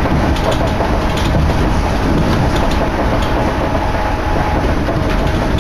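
Electric train running at speed on the rails, heard in a strong draught of wind: a steady, loud rush of wind and rolling noise with faint rail clicks.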